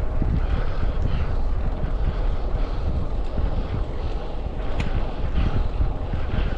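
Wind rumbling over the microphone of an action camera on a moving road bike, with road noise underneath.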